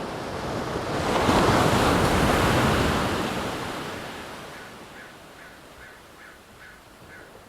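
Ocean wave breaking and washing in, swelling to a peak about a second in and fading away over the next few seconds. In the quieter second half, faint short chirps repeat two or three times a second.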